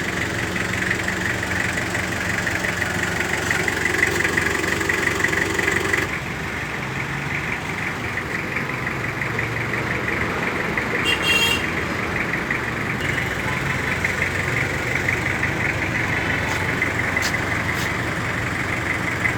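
Toyota Qualis GST's 2.4-litre diesel engine idling steadily, with a fast, even clatter. Its tone shifts about six seconds in, and a short high-pitched chirp sounds about eleven seconds in.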